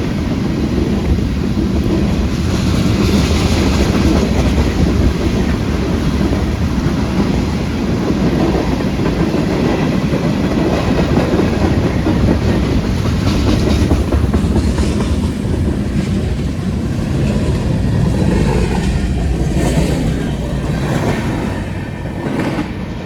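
A freight train rolling past: a steady rumble of wheels on rail that eases off near the end as the last cars go by.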